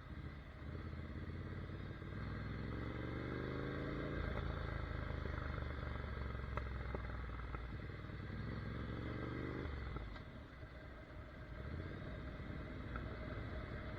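Ducati Monster 797's air-cooled L-twin engine on the move, its note climbing in pitch twice as it pulls. The second climb breaks off sharply about ten seconds in, and a lower, rougher running follows.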